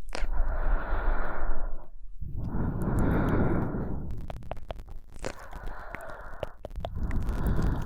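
Close-miked human breathing, slow breaths of one and a half to two seconds each, four in all, with small clicks between them.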